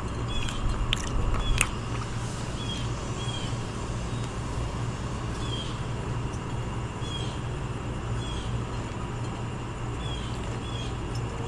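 Steady low mechanical hum, with short high chirps recurring about every second and a few sharp clicks in the first two seconds.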